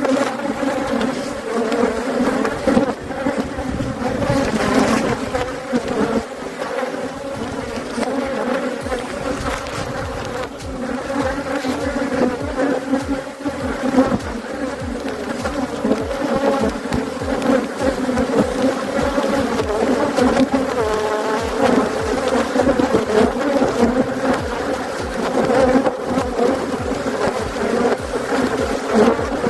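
Many honeybees buzzing loudly around an opened hive: a dense, steady, unbroken hum.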